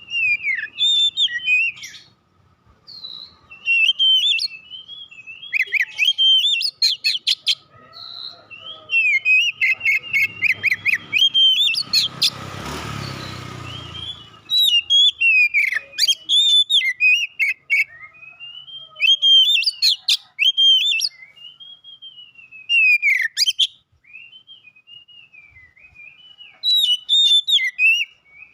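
Oriental magpie-robin (kacer) singing: varied whistled phrases broken by rapid, clicking trills, in bursts with short pauses. A burst of rushing noise lasts about two seconds, some twelve seconds in.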